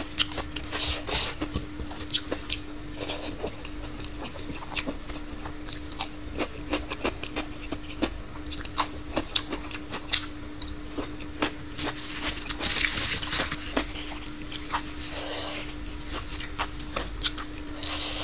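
A person chewing and biting food close to the microphone, with many short crisp crunches and mouth clicks, over a steady hum.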